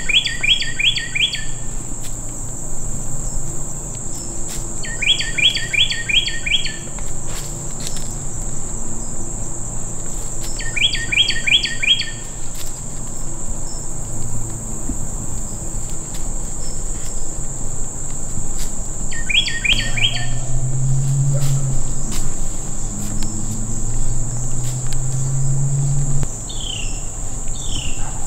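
A songbird singing a short quick run of about five notes, repeated four times several seconds apart, over a steady high drone of insects.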